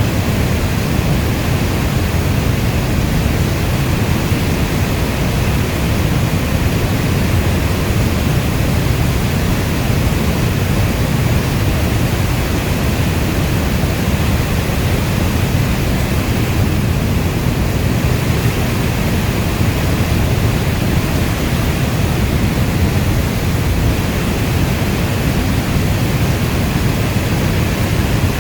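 Steady heavy rainfall as a dense, even hiss weighted toward the low end, with no separate drops, thunder or other events standing out.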